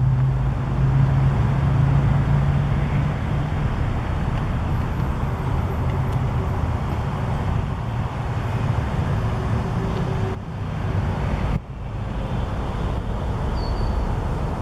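Porsche 911 Carrera's flat-six engine running through an aftermarket Tubi exhaust: a steady, low drone that dips briefly twice near the end.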